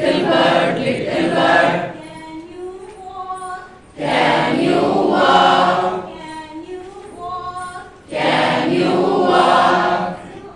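A group of voices singing together without instruments, in three loud phrases of about two seconds each. A single quieter voice sings between the phrases.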